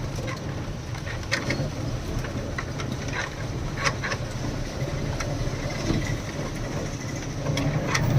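Truck engine running steadily while the lorry drives over a potholed road, with many short knocks and rattles scattered throughout.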